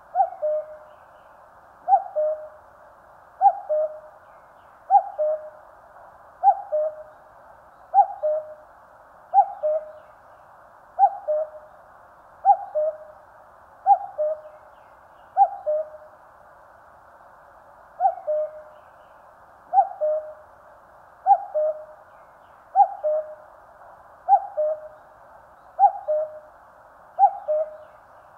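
Common cuckoo calling its two-note "cuck-oo", the first note higher and the second lower, repeated steadily about every one and a half seconds, with one longer pause about midway.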